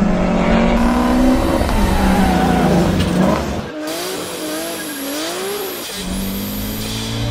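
Car engines revving hard with tire squeal from drifting cars. The sound cuts off suddenly a little past halfway, then an engine pitch swings up and down.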